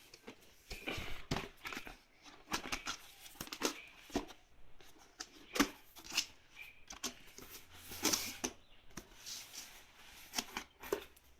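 Helmet box and its packaging being handled and opened by hand: irregular rustling, scraping and small knocks.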